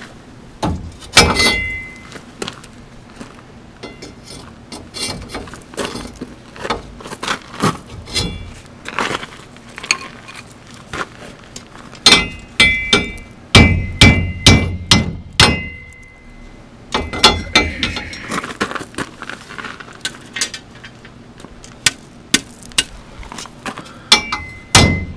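Steel rebar clanking and knocking against a steel hitch extension as a red-hot end is bent into a loop, in irregular clusters of strikes; the harder hits leave a bright metallic ring.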